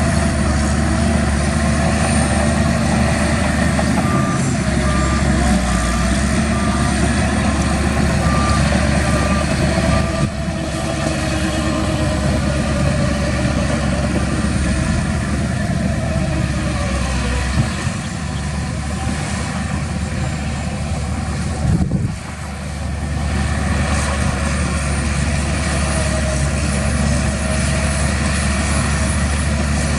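Heavy diesel earthmoving machinery (dump truck and bulldozer) running steadily under load. From about four seconds in, a reversing alarm beeps at one pitch, about two beeps a second, for some six seconds.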